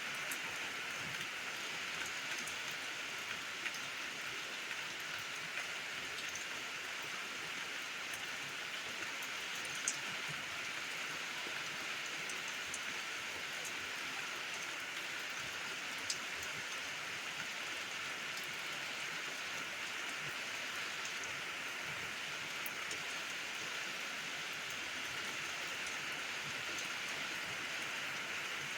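Steady rain falling, an even hiss with a few sharper single drop hits standing out, the clearest about ten and sixteen seconds in.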